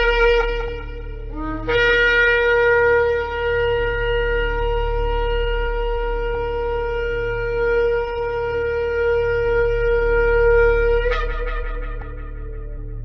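Shofar (ram's horn) blasts: a blast ends just after the start, then a brief note, then one long steady blast of about nine seconds that breaks upward in pitch as it ends. A faint steady low hum runs underneath.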